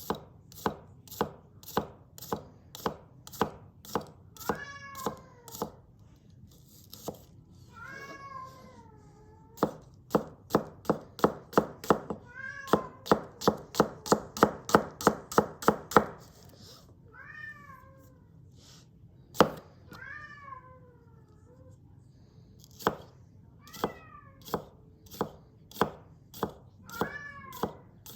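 Thinned Global G2 gyuto slicing a carrot, the blade tapping the cutting board about twice a second and quickening to a faster run of cuts midway. A cat meows repeatedly over the cutting, about seven times.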